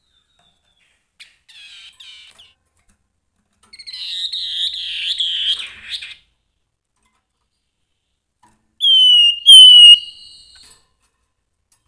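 Grey-headed babbler singing: a faint short chatter, then a warbling phrase of quick rising-and-falling notes lasting about two seconds, then near the end two loud, clear whistles that each slide downward.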